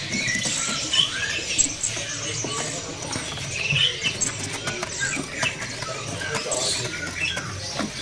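Caged songbirds chirping and calling in many short, scattered notes, with light tapping and fluttering from birds hopping and flapping in their cages.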